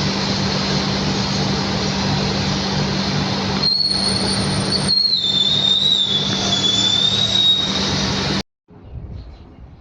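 Boeing 737-800 jet engines running loud and close, with a steady low hum. About a third of the way in a high engine whine comes up and wavers slightly in pitch. The sound cuts off abruptly near the end, leaving faint outdoor background.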